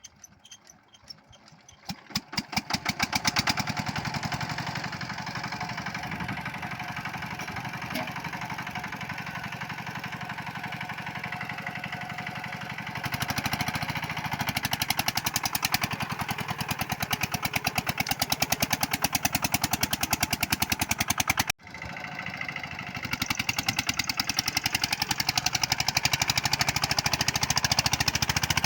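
Single-cylinder diesel engine of a bhutbhuti motor van (Changfa-type 10 hp) catching about two seconds in after a few pops, then running with rapid, even beats. It runs harder about halfway through, cuts out abruptly for a moment about three-quarters through, and comes back louder.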